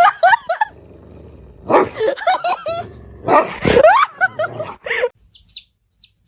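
A pet animal calling loudly in three drawn-out bouts, its pitch sliding up and down. From about five seconds in, a bird chirps in short, high, falling notes about twice a second.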